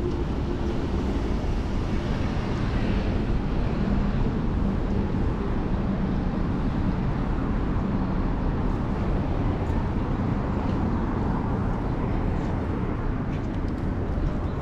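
Steady rush of wind and road noise while riding a bicycle through city traffic, heavy in the low end, with a few faint ticks near the end.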